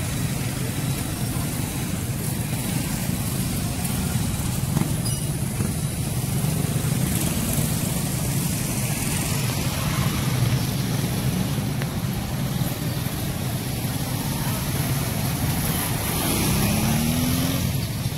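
Steady road traffic noise of passing cars and other vehicles. Near the end, one engine's pitch rises briefly as a vehicle speeds up.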